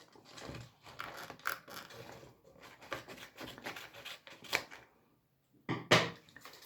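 Paper being cut with scissors and handled: a string of short, irregular snips and rustles, a brief pause about five seconds in, then a louder rustle near the end.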